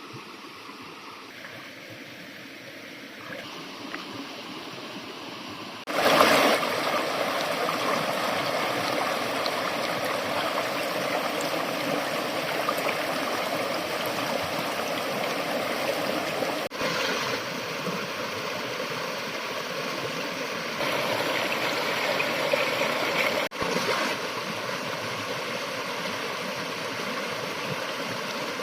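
Rushing river water running over rocks, a steady noise that turns suddenly much louder about six seconds in, with two abrupt breaks later where the sound cuts off for an instant.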